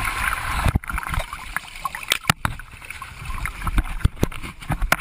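Ocean water splashing and sloshing close to a handheld action camera in the sea, with frequent sharp knocks and bumps on the camera and a low rumble.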